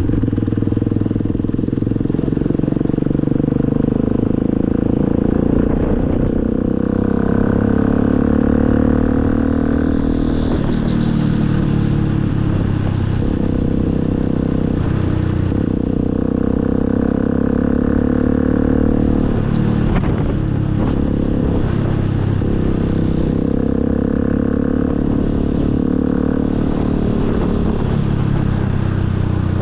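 Motorcycle engine running under way, its pitch climbing and dropping again several times as the rider opens and closes the throttle.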